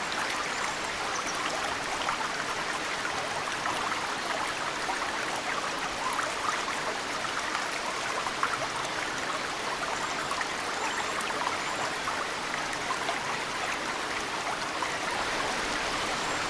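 A mountain stream flows steadily, with snowmelt water trickling and dripping into it in many small splashes. A few faint high bird chirps come and go over the water.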